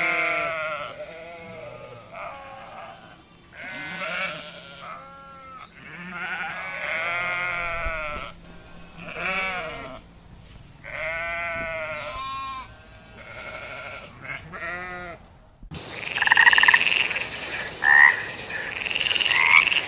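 Goats bleating: a run of quavering calls, each about a second long, one after another. After a sudden cut near the end, higher-pitched, sharper animal calls follow.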